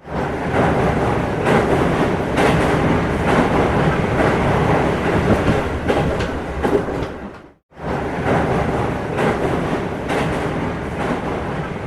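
A train running along track, with a steady rumble and regular clicks about once a second from the rail joints. It cuts off abruptly about two-thirds of the way through and resumes straight away.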